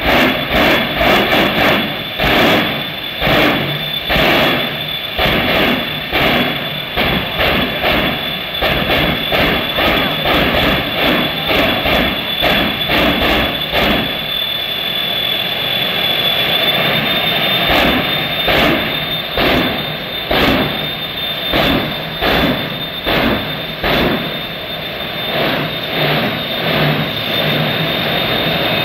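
Jet engines of a dual-engine jet truck running with a steady high whine, pulsing in repeated bursts about twice a second. The pulsing eases for a few seconds midway, then resumes.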